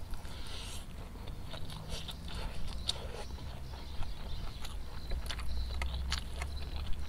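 Close-miked chewing of a mouthful of fried rice vermicelli and mashed tempe eaten by hand, with wet mouth clicks and smacks scattered throughout over a low steady rumble.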